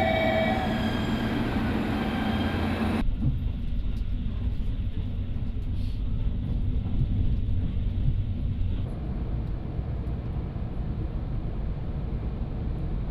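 Electric express train moving along a station platform, its motors giving a high whine that fades within the first second or so. About three seconds in the sound changes to the low, steady, muffled rumble of a train running along the track, heard from inside the carriage.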